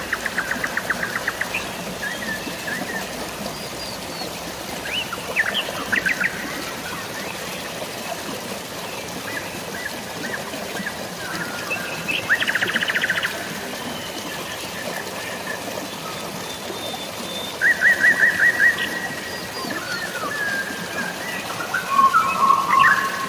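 Birds singing over a steady hiss of rain and flowing water. Several times, a bird gives a short, rapid trill of evenly spaced notes, with scattered shorter chirps and whistles in between.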